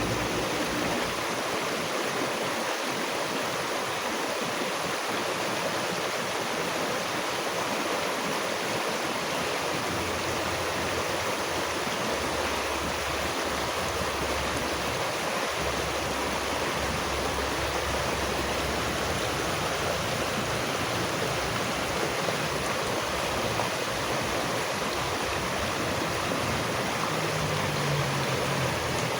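Running water, a stream flowing steadily and evenly.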